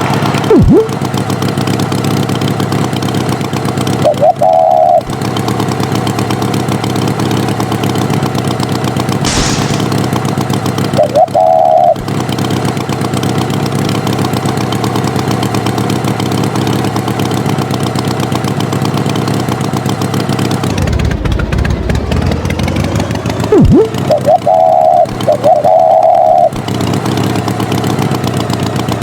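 Tractor engine running steadily, with a few short, loud beeps over it: once about four seconds in, again about eleven seconds in, and several near the end. Quick pitch swoops come at the very start and again a few seconds before the end.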